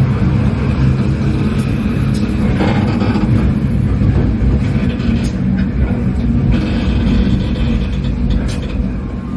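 Local passenger train hauled by a CC 201 diesel-electric locomotive, heard from on board while running: a loud, steady low rumble with a few sharp clicks from the wheels on the track. The rumble eases slightly near the end as the train approaches a station stop.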